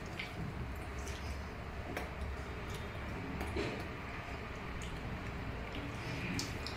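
Quiet room tone: a low steady hum with scattered faint clicks and soft mouth noises as children chew fried cheese corn balls.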